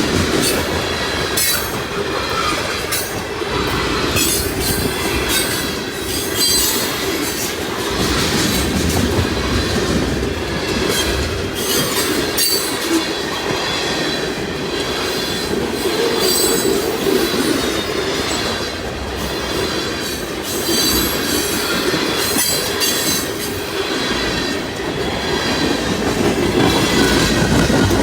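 Freight train cars rolling past, steel wheels clacking over rail joints, with thin high-pitched wheel squeal coming and going over the steady rumble.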